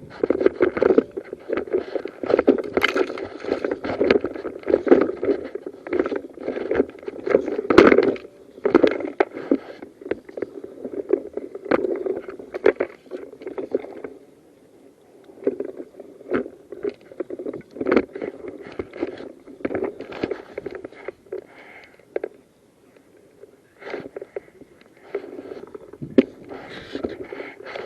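Close rustling, crunching and scraping of a person moving through undergrowth with body-worn camera gear, with many small knocks throughout; it eases off for a stretch in the middle and picks up again near the end.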